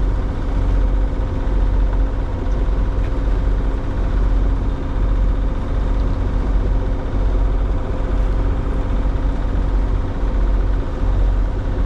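Sailing boat's engine running steadily under way at nearly 1800 RPM, a continuous low drone with a steady hum.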